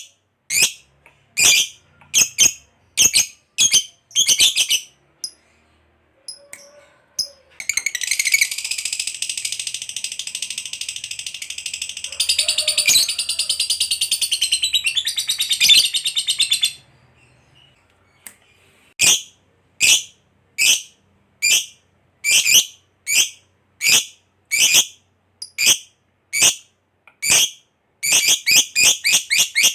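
Lovebird singing: sharp high single chirps about one or two a second, then a long rapid chattering trill (the 'ngekek') lasting about nine seconds, then single chirps again that come faster near the end.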